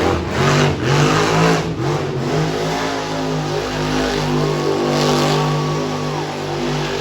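Monster truck engine revving in a few quick blips, then held at a steady high note that wavers slightly.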